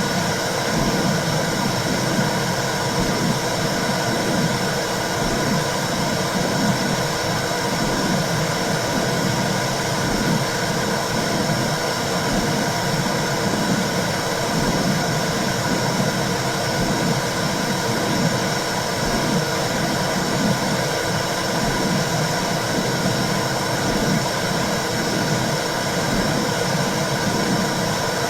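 Womb sound for calming a baby: a steady, loud whooshing hiss with a low pulse about once a second, like blood flow and a heartbeat heard from inside the womb.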